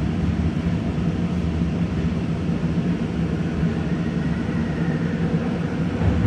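Steady hum and rumble of a SkyTrain light-metro train at a station, with a faint high whine coming in around the middle. Near the end the low rumble swells as another SkyTrain car pulls in alongside.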